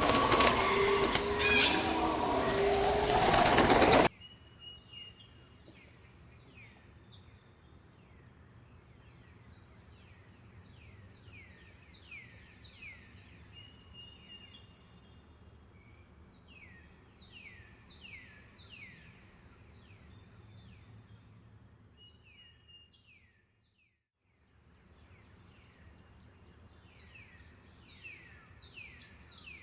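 Birds singing in a forest, with many short notes sliding downward in pitch, over a steady high-pitched insect-like drone. For the first four seconds there is a much louder, denser mix of bird sound that cuts off suddenly. The sound fades out briefly about 24 seconds in.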